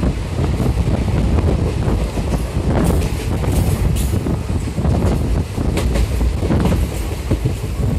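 Passenger train running along the track, heard from an open coach doorway: a steady rumble of the wheels on the rails, with several sharp clicks and clanks between about three and six seconds in.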